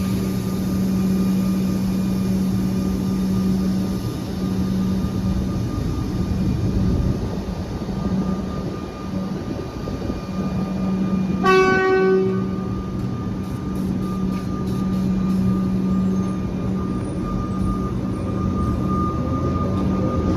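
Electric suburban train at a station platform, its equipment giving a steady hum. About halfway through the train horn gives one short toot, and near the end a rising motor whine begins as a train starts moving.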